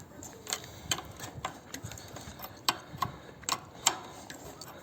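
Sharp metal clicks and clinks, irregular at about two a second, of a wrench turning the top nut off a Lada Priora front strut rod.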